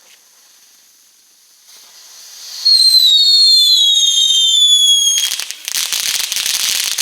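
Two small whistling fireworks going off together: after a faint hiss, a loud shrill whistle in two tones, both falling slowly in pitch, for about two and a half seconds, then dense rapid crackling from about five seconds in.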